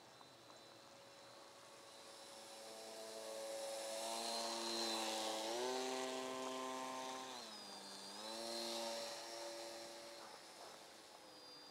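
Small electric RC foam plane (Nutball) buzzing as it flies by, growing louder toward the middle and then fading. Its pitch steps up, drops briefly about eight seconds in, then comes back up as the throttle changes.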